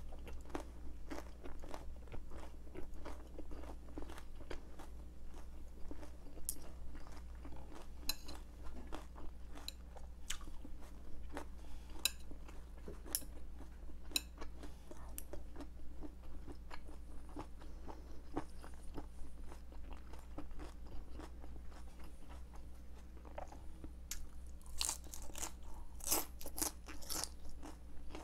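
Close-miked chewing and crunching of vegetables, with a few sharp clicks of metal chopsticks against a ceramic plate, the loudest clicks near the end.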